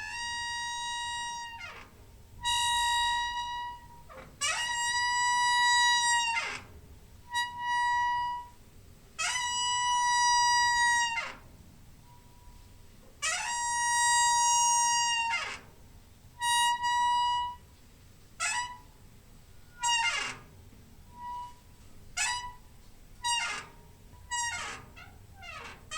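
Door hinge squeaking, opened and closed over and over: a run of steady, high, reedy creaks, the longer ones lasting one to two seconds. In the last third they become shorter and come more quickly.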